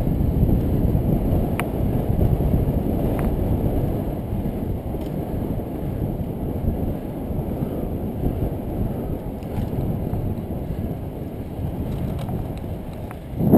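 Steady wind noise buffeting a GoPro microphone on a moving road bike, with a couple of faint clicks; the noise jumps sharply louder at the very end.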